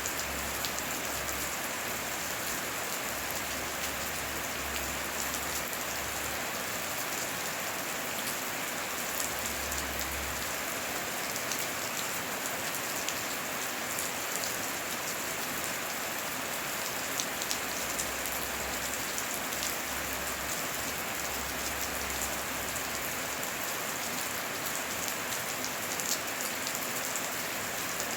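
Heavy rain falling steadily: a dense, even hiss of rain on surfaces with many individual drops ticking through it.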